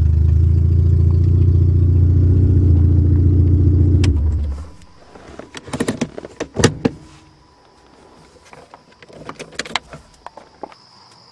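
The engine of an automatic Honda runs steadily, then shuts off about four seconds in. A scatter of clicks and knocks follows, and a steady high cricket trill comes in toward the end.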